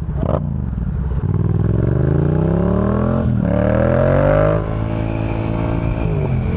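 Yamaha FZ-07's crossplane parallel-twin engine through a Yoshimura exhaust, accelerating under throttle. It rises in pitch, drops at an upshift about three seconds in, and pulls again. It then backs off near the middle and settles to a steady cruise.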